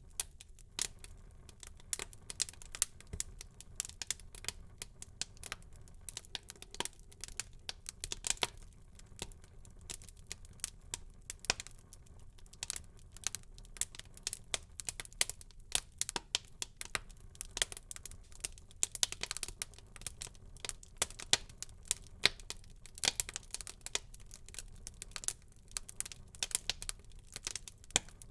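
Wood fire in a fireplace crackling: many irregular sharp pops and snaps over a low steady rumble of the burning fire.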